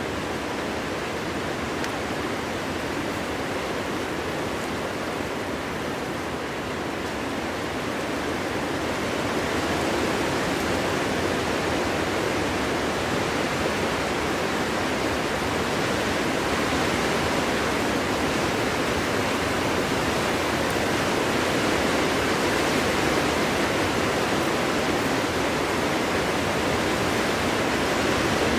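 Steady wind blowing through a forest, a continuous rushing that swells a little louder about a third of the way in and holds.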